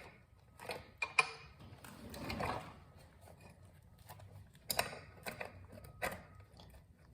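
Motorcycle drive chain and metal wheel parts being handled and refitted: irregular metallic clicks, clinks and rattles.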